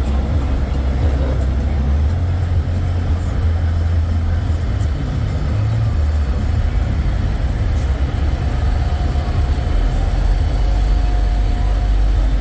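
Low, steady rumble of idling semi-truck diesel engines, with a faint steady high tone for a few seconds near the end.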